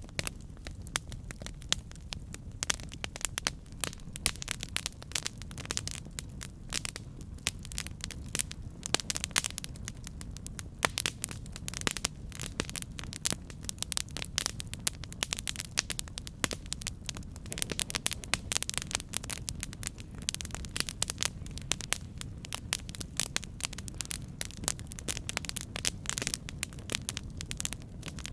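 Campfire burning with a steady low rumble and dense, irregular crackling and popping of the wood.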